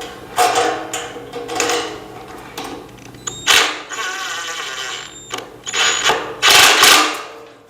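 Power drill-driver running in several short bursts, the longest about two seconds, while driving screws into the stand's frame.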